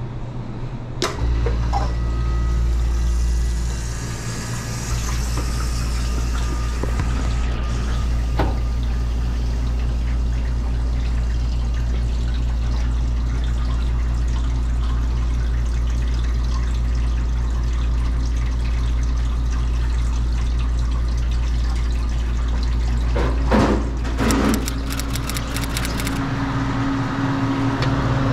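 Ice-O-Matic ice machine running just after start-up: a steady low compressor hum with water circulating and splashing inside the machine. A few sharp clicks and knocks come in along the way, and near the end a further steady tone joins as the condenser fan comes on, its cycling switch having closed at 250 psig.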